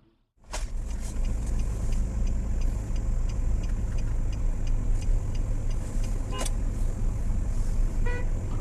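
A car on the move, recorded by a dashcam: a steady low rumble of engine and road noise, with faint regular ticking, a sharp click about six seconds in and a short beep near the end.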